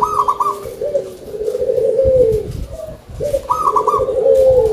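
Local zebra dove (perkutut) singing: two cooing phrases, each opening with a couple of higher notes and running into a longer rolling coo.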